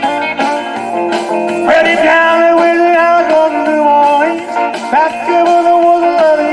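Live rock and roll band music led by electric guitar, with held notes that bend up in pitch twice.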